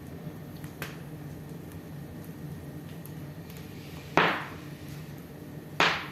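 Wood fire in a fireplace crackling softly over a low steady hum, with two sharp, loud pops about four and six seconds in.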